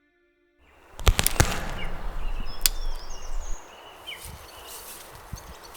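Dry sticks cracking and brush rustling, with several sharp snaps about a second in and another near the end. Birds chirp in the background.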